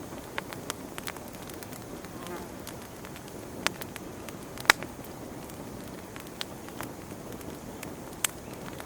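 Wood fire crackling in a fireplace: a steady low rush of flame with sharp, irregular pops from the burning logs, the loudest pop a little past halfway and another near the end.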